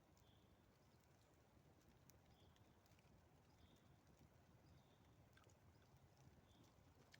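Near silence: faint, sparse crackles from a campfire, with a soft high note repeating about once a second.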